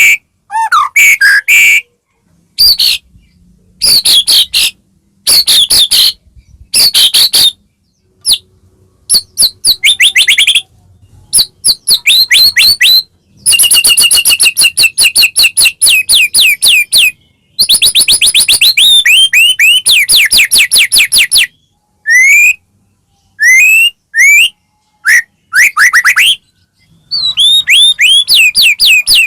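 White-rumped shama (murai batu) singing in full song: loud phrases of fast repeated whistled notes and rapid trills, broken by short pauses, with a long unbroken run in the middle.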